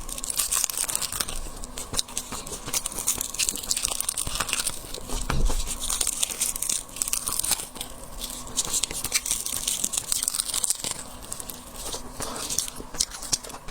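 Shrimp shells being cracked and peeled by hand close to the microphone: a dense, continuous run of crackles, snaps and crinkles, with one dull thump about five and a half seconds in.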